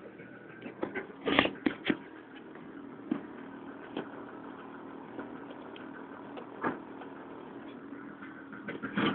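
Toyota Starlet engine idling steadily, with a handful of knocks and rubs from the handheld camera, the loudest about a second and a half in and again near the end.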